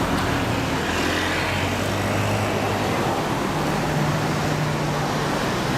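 A motor vehicle's engine running steadily, its low hum stepping up in pitch about halfway through.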